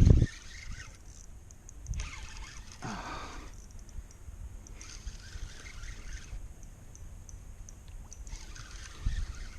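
Water splashing and trickling around a fishing kayak, with a heavy low thump as it begins and another near the end.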